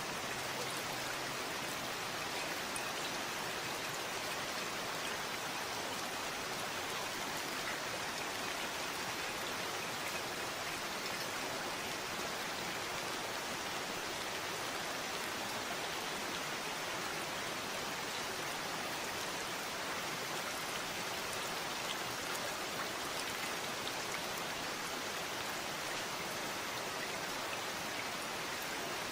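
Steady rain falling, an even hiss of many drops with faint individual drop ticks scattered through it.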